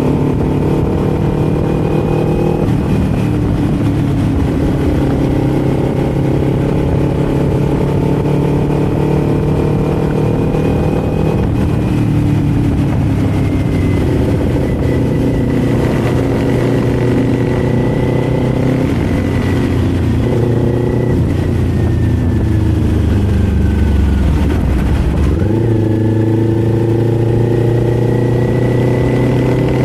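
Kawasaki Z400 parallel-twin engine running while riding, heard from the rider's position. The engine note holds steady for stretches and shifts pitch several times as the throttle and revs change.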